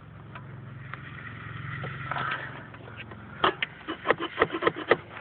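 Hand work on a snowmobile's exhaust: a steady low hum, then a quick run of about ten sharp knocks and clanks in the last two seconds.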